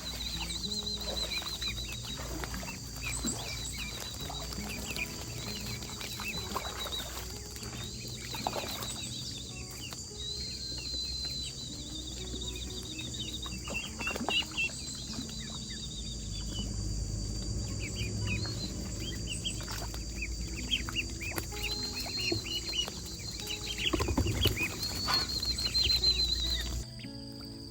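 Chickens clucking and pecking, with many short taps and high chirps. A steady high hiss underneath stops abruptly near the end.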